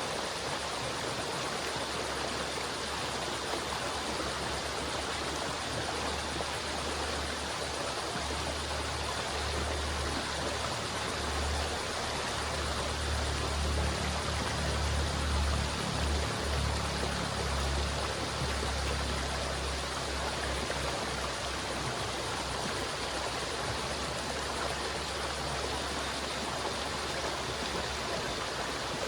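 River water flowing steadily, a continuous rushing noise, with a deeper low rumble that swells in the middle and then eases back.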